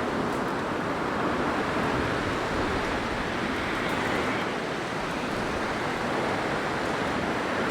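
Steady blizzard wind: a dense, even rush of wind noise that swells and eases slightly.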